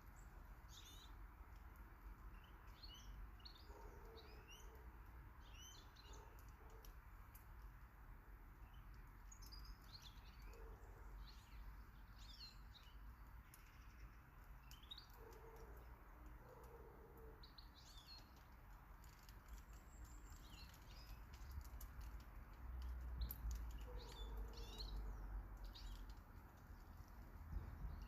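Faint garden birdsong: many short, high chirps and twitters from small birds, scattered throughout. A low rumble swells about two-thirds of the way through.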